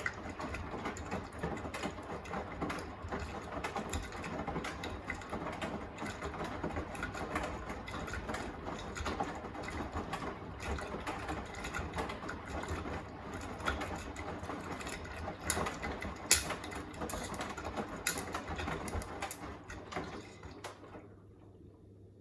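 Beko WTK104121A washing machine tumbling its wash load, with a steady churning and many irregular small clicks and knocks. The drum stops near the end, as in the pause between tumbles.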